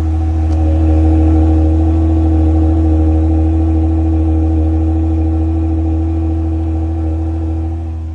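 2025 RAM 1500's Hurricane twin-turbo straight-six running steadily at idle with a deep, even note, slowly growing fainter over the last couple of seconds.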